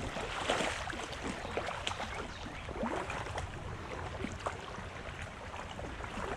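Creek water splashing and trickling, with many small irregular splashes.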